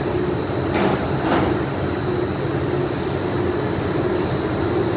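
Steady din of pipe-factory machinery, with a thin constant high whine over a low drone, and two short hissing swishes about a second in.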